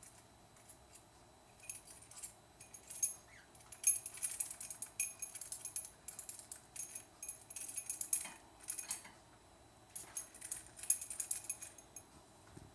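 A small metal toy bell jingling in irregular bursts as a cockatiel pecks at and shakes it.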